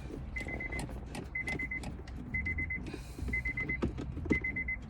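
A car's warning chime sounding about once a second, each chime a short, rapid string of high beeps. Light clicks and knocks come in between.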